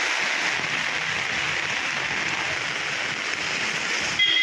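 Steady hiss of rain and water on a wet street. Near the end a short, louder high tone cuts in briefly.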